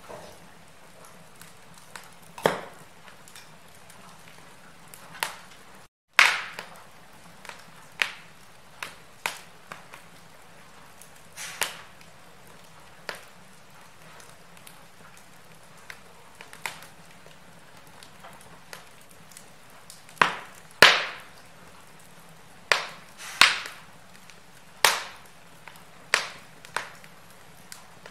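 Wood fire crackling: irregular sharp pops and snaps over a soft steady hiss, with the loudest snaps about six seconds in and around twenty seconds in. The sound drops out completely for an instant just before six seconds.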